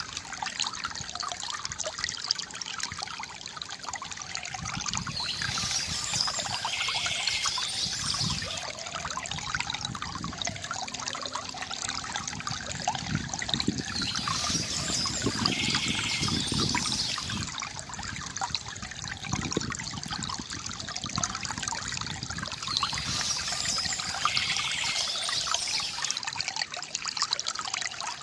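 Water from a bamboo fountain trickling and splashing steadily, with a brighter, higher rush that comes back about every nine seconds.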